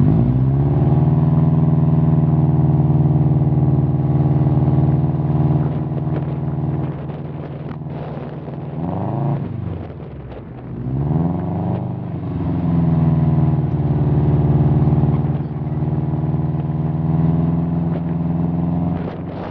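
Subaru Impreza WRX's turbocharged flat-four boxer engine, breathing through an aftermarket exhaust, revved and held at high rpm while standing still. The revs drop and climb again twice in the middle before settling back to a steady high hold.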